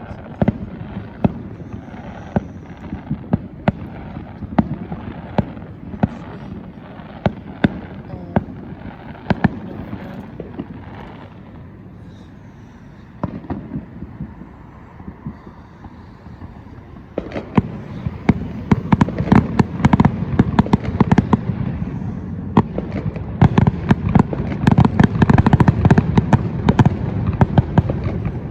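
Fireworks going off: scattered sharp cracks and bangs over a continuous rumble, easing off in the middle, then a dense rapid crackling barrage from a bit past halfway that is the loudest part.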